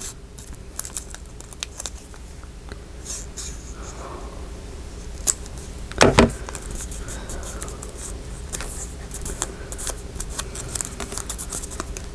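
Paper and craft supplies handled on a work table: scattered light clicks and rustles, with one louder knock about six seconds in.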